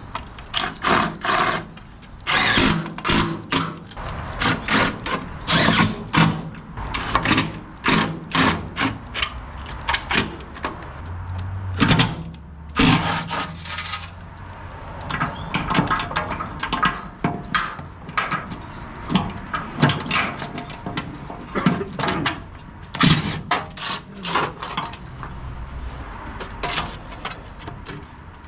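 Power drill run in many short, irregular bursts, with knocks and tool clatter between them, as new reflective plates are fixed to the back of a dump truck.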